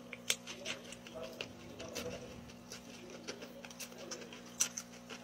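A person chewing crunchy spicy snacks from a loaded pineapple, with irregular crisp crunches and mouth clicks over a faint steady hum.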